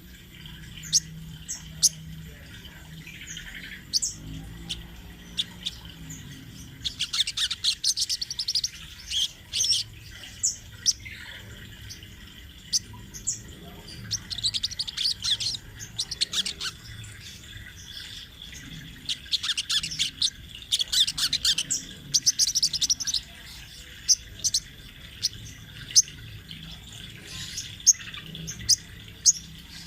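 Sogok ontong (sogon trotol), a small sunbird, singing actively: rapid high, twittering runs of chirps that come in several longer bursts, with single sharp notes scattered between them.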